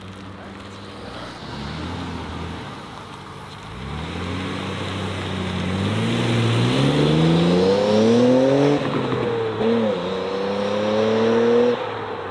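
A modified car's engine idling, then accelerating away hard. The revs climb for about five seconds, drop briefly at a gear change, climb again in the next gear, and cut off suddenly near the end as the driver lifts off.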